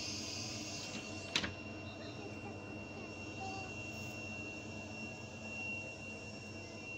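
Trenitalia Frecciargento electric train moving slowly past the platform as it pulls out, a steady running noise with a high, steady whine. A single sharp click about a second and a half in.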